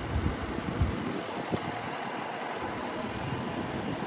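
Jeep V8 engine idling steadily, with a couple of faint light knocks in the first two seconds.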